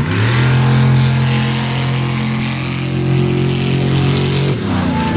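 Sand drag racing engine at full throttle through a pass. The pitch climbs sharply at the launch, then holds nearly steady for about four and a half seconds before dropping off near the end.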